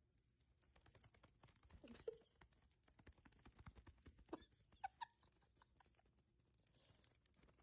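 A cat moving about, faintly pattering and scuffling, with a few short mews about two seconds in and again around the middle.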